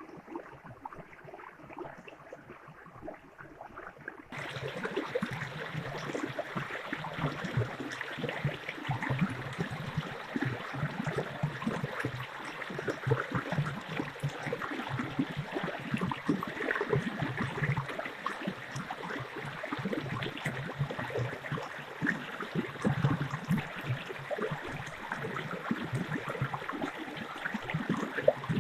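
A stream running and gurgling, a steady rush of water with many small splashes and trickles. A few seconds in it cuts from a quieter, duller sound to a louder, brighter one.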